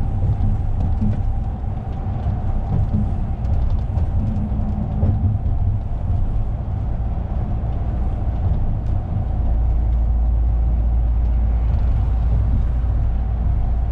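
Lorry engine and road noise heard from inside the moving cab: a steady low rumble that gets deeper and a little louder about nine seconds in.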